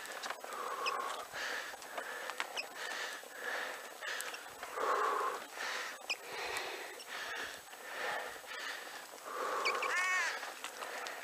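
A cyclist breathing hard on a steep climb, in heavy, wheezy breaths every second or two. A brief high-pitched call sounds near the end.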